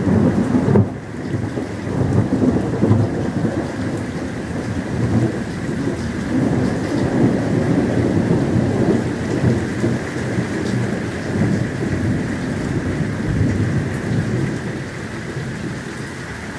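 Thunderstorm: long rolling thunder rumbling almost continuously over steady rain, briefly dropping about a second in and easing off near the end.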